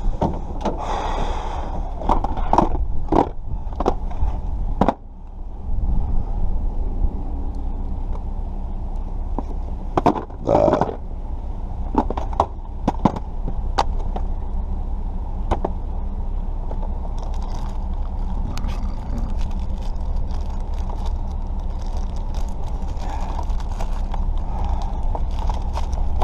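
Metal key scraping and clicking in a car lock as cut keys are tried one after another, in irregular clicks and scrapes over a steady low rumble.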